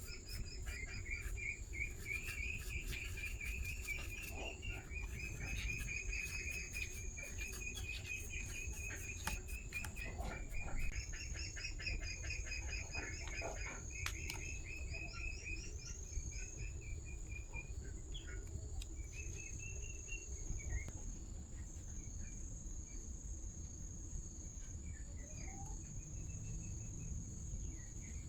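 Crickets trilling: a steady high-pitched trill with repeated chirping phrases over a low background rumble. Light clicks sound in the first half.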